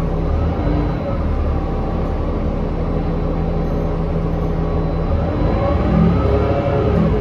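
Cabin sound of a 2019 New Flyer XD40 diesel transit bus under way: a steady low engine drone, with a whine that rises and falls near the end. The bus sounds abnormally loud and strange, which the rider can't explain.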